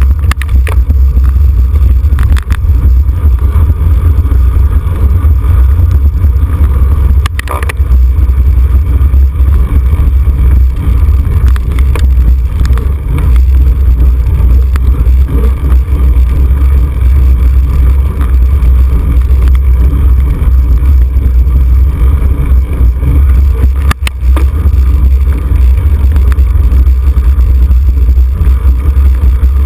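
Wind buffeting a bicycle-mounted camera's microphone while riding in a road race: a loud, steady low rumble, broken by a couple of sharp knocks.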